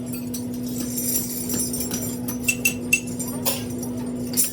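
A steady machine hum with scattered light metallic clinks and knocks, several in quick succession around the middle.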